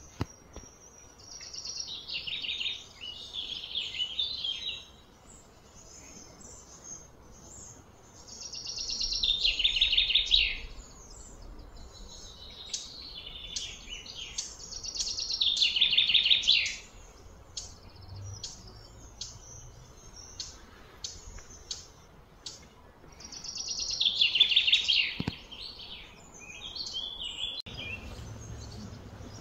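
A bird singing four loud phrases of rapid notes falling in pitch, each two to three seconds long, swelling and then breaking off, with short high chirps in between.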